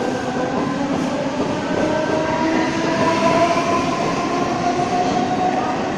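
Mumbai suburban electric local train moving along the platform: a steady, loud rumble of wheels on rails, with a gently rising electric motor whine as it picks up speed pulling out.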